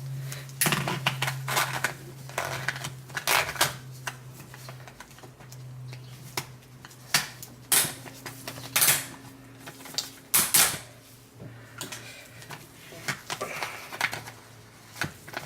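Irregular sharp clicks and knocks of a plastic lye container and its child-resistant cap being handled, heard over a steady low hum.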